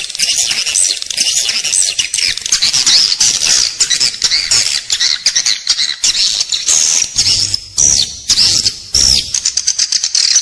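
Edible-nest swiftlets twittering inside a swiftlet house: a dense, unbroken chorus of high, rapid chirps and short trills. It is the inside-the-building call used as a lure to draw swiftlets in to roost and nest.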